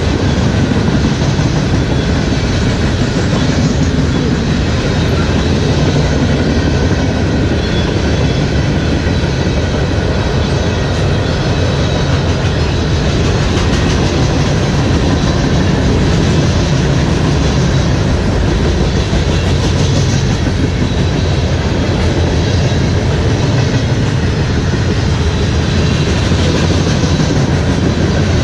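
Loaded freight train rolling past, a steady loud rumble with the clatter of wheels over rail joints.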